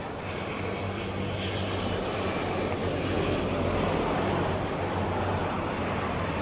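A passing engine: a low, steady hum that grows louder to a peak about halfway through.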